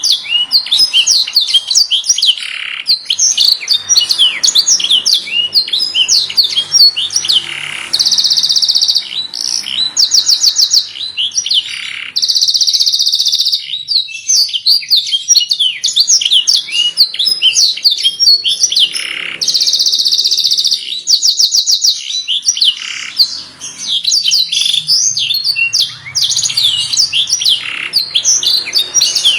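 Domestic canary singing a long, unbroken song: quick, high chirping phrases broken by several long, rapid, even trills.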